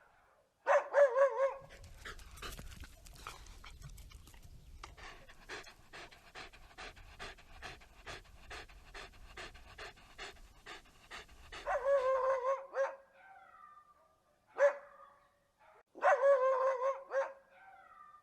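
A dog panting rapidly, about three breaths a second, for roughly ten seconds, with short wavering whining calls before and after and a couple of brief barks near the end.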